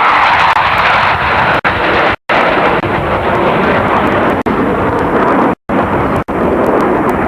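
Loud jet engine roar from an aircraft passing at an airshow, dropping in pitch during the second half as it goes by. The sound cuts out for an instant several times.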